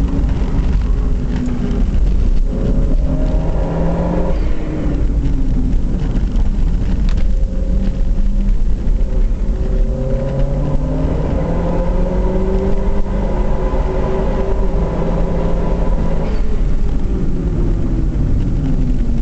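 Car engine accelerating and decelerating around a circuit, its pitch climbing under throttle and dropping off several times, as on lifts and downshifts for corners, over a heavy low rumble of wind and road noise.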